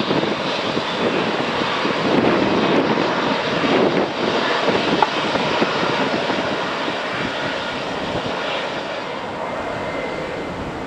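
Jet airliner's engines, a steady rushing roar that eases off slightly toward the end as the aircraft moves away.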